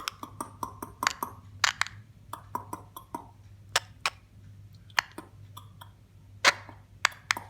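Irregular run of sharp mouth clicks and short clucks, a couple of dozen spread over several seconds, a few louder than the rest, over a faint steady hum.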